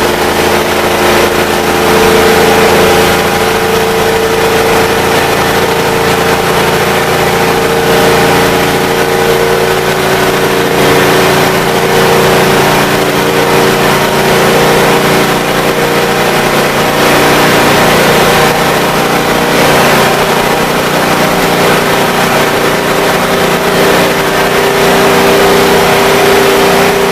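International Harvester SV304 gasoline V8 of a 1973 Loadstar school bus running steadily at speed under load.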